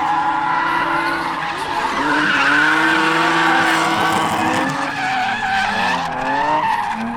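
Drift car sliding with its tyres squealing while the engine revs rise and fall.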